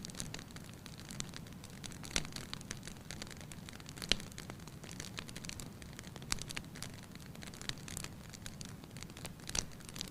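Wood fire crackling in a fireplace: irregular pops and snaps over a steady low rumble, with the sharpest pop about four seconds in.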